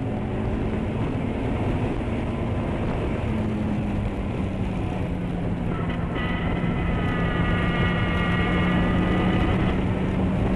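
Honda S2000's four-cylinder engine running steadily at speed on track, heard from inside the cabin, with road and wind noise. A higher whine joins about halfway through and fades out near the end.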